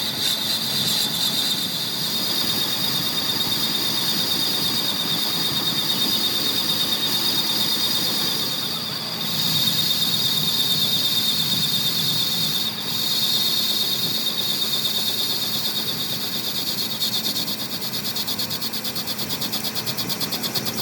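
A steady, high-pitched squeal of metal being worked on a machine tool, with two brief dips in the middle.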